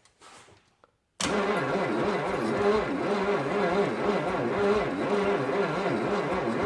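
Starter motor cranking a 1956 Chevy 265 small-block V8 over, starting suddenly about a second in with a steady, evenly pulsing churn. The engine does not fire, and the cranking is slow from a tired battery.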